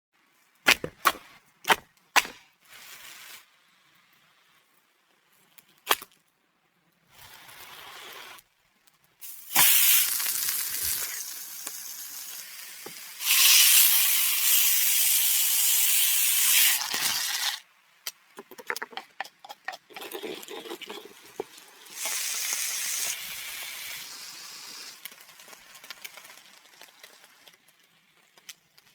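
Barbecue meat sizzling on a hot grill, with a long loud hissing stretch in the middle and a shorter one later. A few sharp clicks and knocks in the first seconds.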